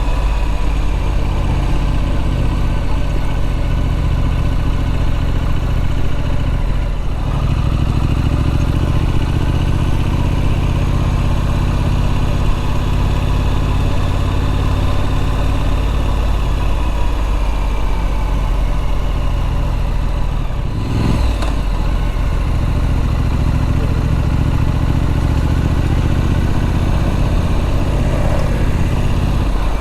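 Triumph Street Scrambler's 900 cc parallel-twin engine running steadily under way, with a short dip in the engine note a little after two-thirds of the way through.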